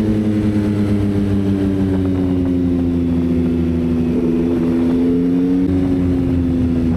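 Yamaha XSR900 motorcycle's inline-three engine running at a steady cruise. The engine note eases a little lower over the first few seconds, then holds steady.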